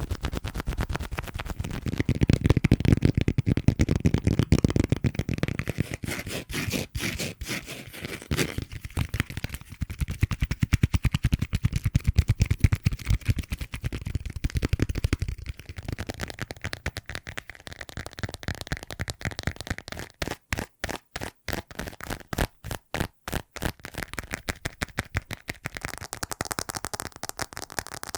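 Fast, dense tapping and scratching on objects. Toward the end comes a run of separate sharp taps with short silent gaps between them.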